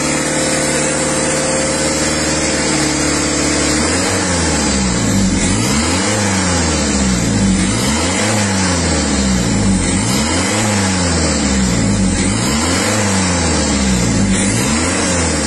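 2007 Ford Focus diesel engine held at a steady speed, then revved up and down repeatedly, about once every second and a half. It happens during an on-car diesel particulate filter cleaning, after the cleaning chemical has been put in.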